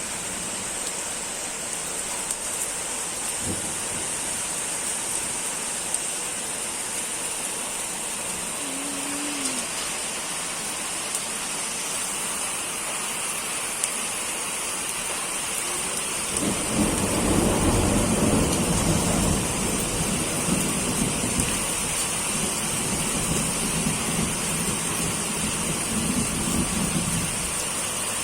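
Steady rain falling, with a low rumble of thunder rolling in a bit past halfway, loudest just after it starts and then fading to a lighter rumble.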